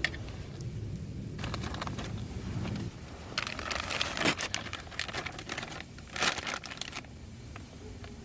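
Plastic packaging of a frozen food product being crinkled and torn open by hand, in several rustling bursts.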